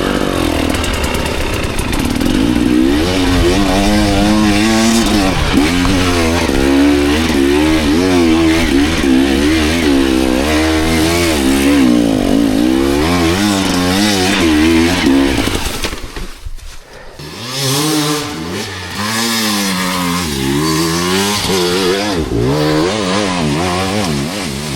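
Dirt bike engine on a trail ride, the throttle opening and closing so the pitch rises and falls over and over. About two-thirds of the way through the engine drops off sharply for a moment, then picks up and revs again.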